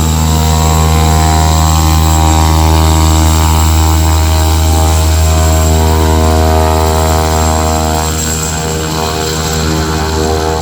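Propeller engine of a skydiving jump plane running loud and steady close by, a deep droning tone with a stack of higher engine tones above it, easing off slightly near the end.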